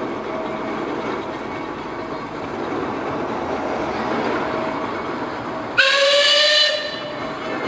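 Steam traction engine whistle blown once, about six seconds in, a shrill tone lasting about a second and rising slightly in pitch, over a steady rumbling background.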